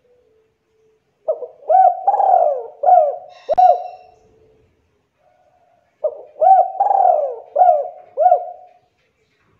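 Spotted dove (tekukur) cooing: two phrases of several short coos, each with a longer rolling note in the middle.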